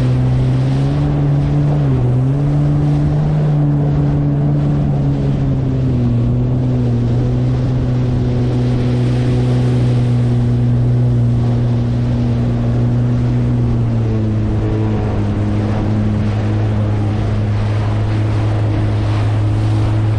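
Yamaha jet ski engine running steadily. Its pitch dips briefly about two seconds in and settles a little lower about fourteen seconds in.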